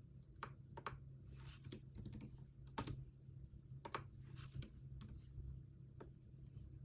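Typing on a computer keyboard: irregular, scattered keystrokes and clicks over a low, steady hum.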